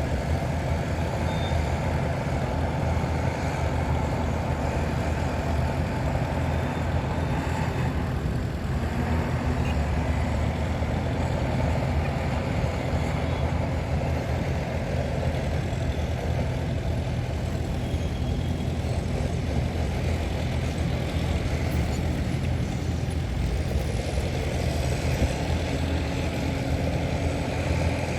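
Heavy diesel engines of a bulldozer and dump trucks running steadily.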